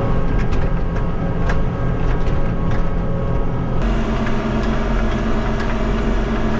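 Tractor engine running steadily, with sharp knocks and rattles as the machine bounces over rough, plowed ground. About four seconds in, the engine note changes abruptly and the rattling mostly stops.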